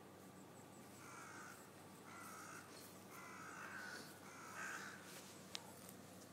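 A bird calling faintly, four or five short calls about a second apart, with a single sharp click near the end.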